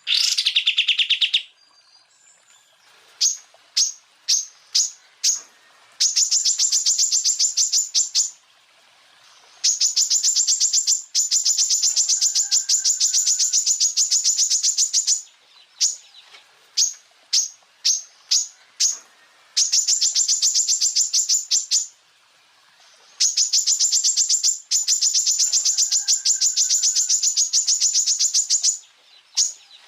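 Greater green leafbird (cucak ijo) singing its rapid-fire 'tembakan': long trains of sharp, high-pitched repeated notes, broken by slower runs of single notes.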